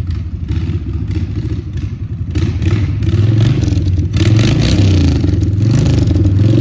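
Kawasaki Mean Streak 1600's V-twin engine running under way and pulling harder, getting louder about two seconds in and again about four seconds in, with wind noise on the microphone.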